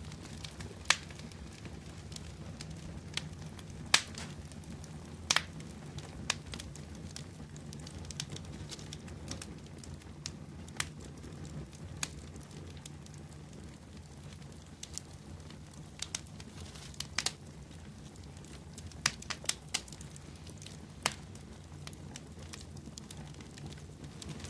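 Bonfire crackling, with sharp pops at irregular intervals over a steady low hum from the burning fire.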